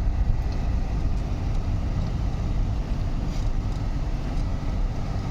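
Vehicle engine running steadily with a continuous low rumble.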